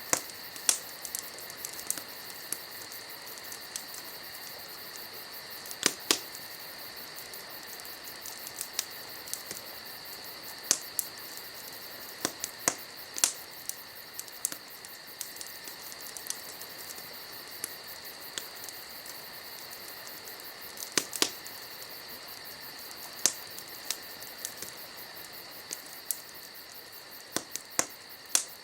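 Wood fire crackling, with sharp pops at irregular intervals, over a steady high trill of crickets.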